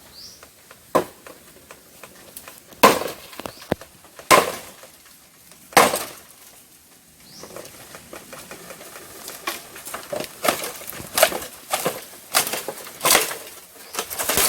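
A blade chopping into bamboo stalks: four well-spaced hard strokes, then a quicker run of lighter strikes in the last few seconds.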